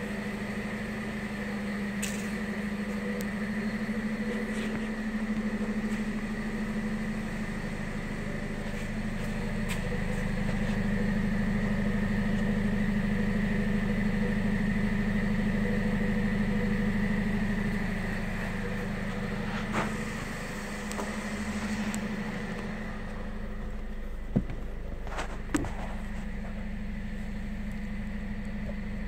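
2008 Dodge Caliber R/T's 2.4-litre four-cylinder engine idling steadily at about 1000 rpm, with its exhaust note heard at the tailpipe. A few sharp knocks come in the last third.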